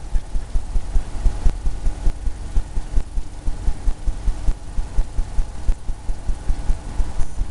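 Paint brush dabbing against a stretched canvas, heard as low thuds, about three to four a second, that keep an even rhythm.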